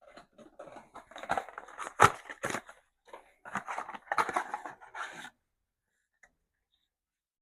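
A run of irregular scrapes, clicks and rustles for about five seconds, with one sharp knock about two seconds in, then stopping.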